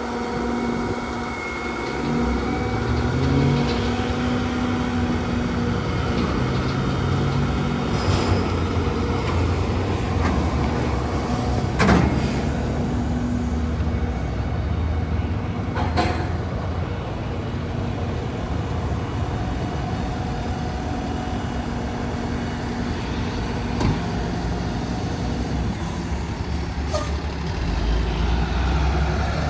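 Hino grapple truck's diesel engine running, its pitch stepping up and down, with steady whining tones over it. Two short, sharp sounds come about twelve and sixteen seconds in.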